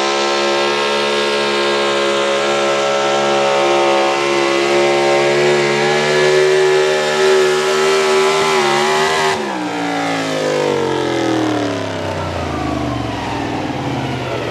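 Ford Super Duty pro stock pulling truck's engine held at high revs under load, its pitch sagging slightly. About nine seconds in, the sound cuts off abruptly and the engine spins down with steadily falling pitch, the sign of the sled's kill switch cutting the ignition, as the announcer reckons.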